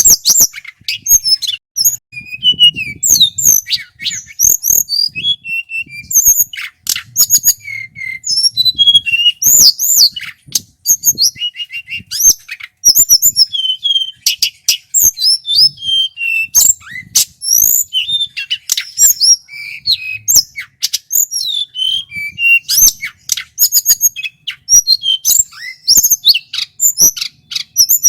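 A tledekan gunung songbird in full song: a fast, unbroken stream of varied whistled phrases that glide up and down, mixed with sharp clicking chips.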